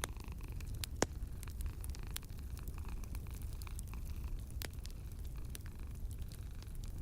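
Wood fire crackling in a fireplace: scattered small pops and snaps, with a sharp louder pop about a second in and another a little before five seconds, over a low steady rumble.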